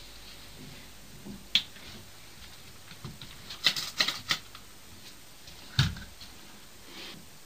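A few sharp knocks and clicks in a small room: one about a second and a half in, a quick run of several around four seconds, and a heavier knock with a dull thud near six seconds.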